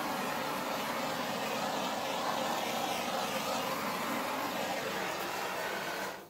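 Handheld hair dryer blowing steadily, then switched off suddenly near the end.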